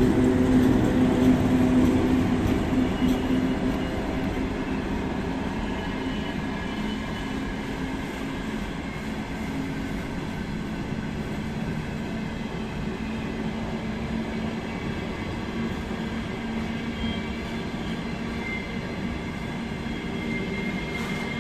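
Electric locomotive-hauled train passing through a station. A steady low hum is loudest in the first few seconds and fades, then the wagons roll by with an even running noise and faint high wheel squeals in the later part.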